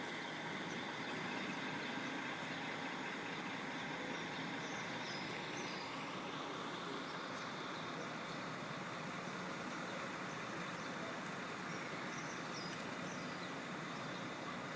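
Diesel coach engine idling steadily while parked, left running instead of being switched off.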